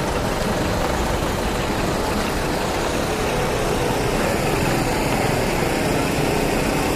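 Large truck engine running steadily at idle.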